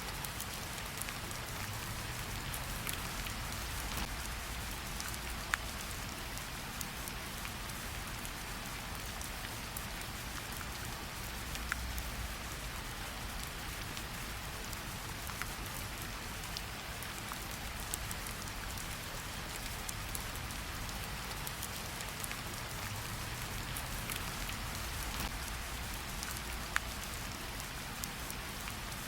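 Steady rainfall hissing evenly, with individual drops ticking sharply here and there, over a low steady rumble.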